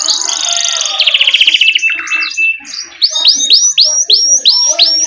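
Domestic canary singing a rolling song: a fast, dense trill in the first two seconds, a short break near the middle, then a run of rising whistled notes repeated about four a second.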